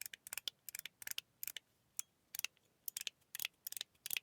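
Metal Toys Bubble mechanical fidget slider with a Rain Peak plate, slid back and forth so its detents give clusters of sharp metal clicks, several strokes a second with short pauses between.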